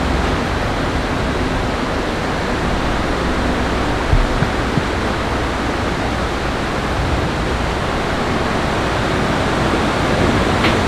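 Steady rushing noise of falling water, with a couple of faint knocks about four seconds in.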